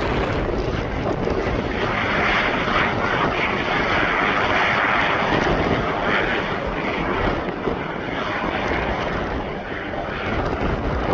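Fixed-wing airplane's engines running loud as it passes, a dense steady rush that swells in the middle and eases off a little toward the end.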